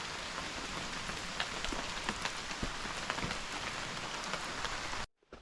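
Steady rain falling, with many separate drop hits heard among the hiss; it cuts off suddenly near the end.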